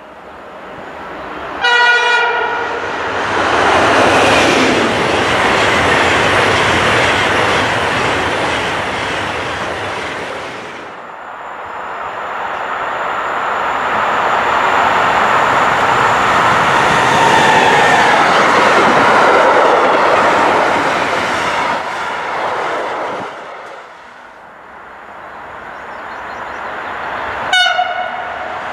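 A white ICE high-speed train gives a short horn blast about two seconds in and passes at speed with loud wheel and air noise. After a sudden break, a freight train hauled by an electric locomotive passes, and near the end an approaching electric locomotive sounds a short, higher-pitched horn blast.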